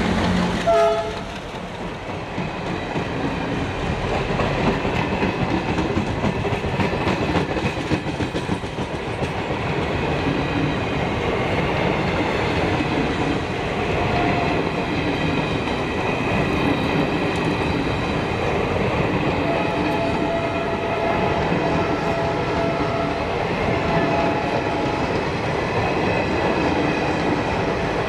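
Passenger coaches of an express train running past at speed: a steady rumble with wheels clattering over the rail joints, and brief high squealing tones now and then.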